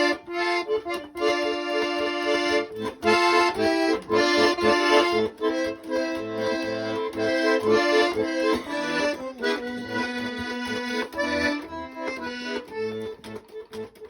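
Accordion playing a melody over chords and a separate bass line: the instrumental introduction to a sung song.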